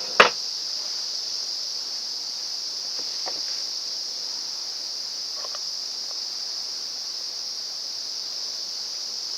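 A steady, high insect chorus of crickets or cicadas runs throughout. A sharp click comes just after the start, with a few fainter knocks about three and five and a half seconds in, as parts are handled.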